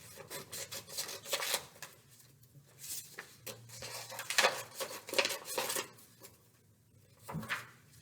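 Scissors snipping through paper along a traced leaf outline, with irregular snips and paper rustling.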